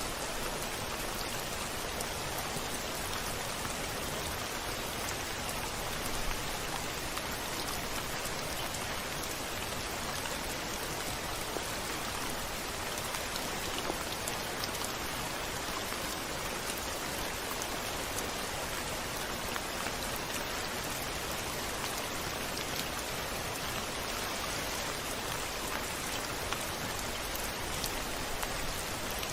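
Steady rain, with faint scattered drop ticks through an even hiss.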